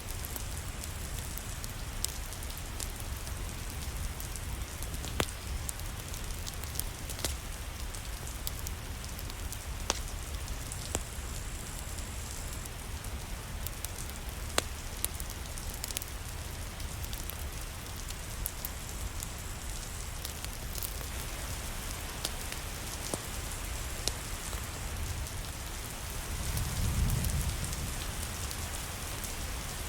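Steady rain falling, with scattered sharp crackles and pops from a fireplace. A low rumble swells briefly near the end.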